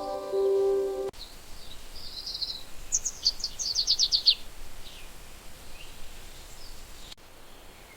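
Background music cuts off about a second in. A small bird then sings a quick run of about eight high chirps over a faint outdoor background.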